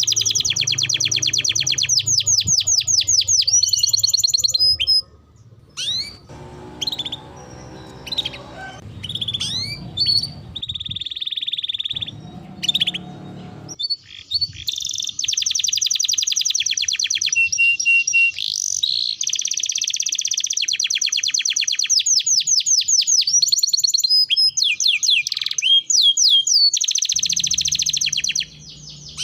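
Domestic canary singing vigorously: long, fast rolling trills mixed with chirps. The song thins to scattered chirps for several seconds about a third of the way in, then the long trills resume.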